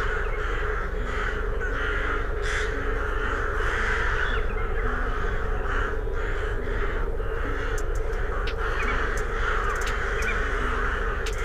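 Bird calls repeated over and over, about two a second, with no break.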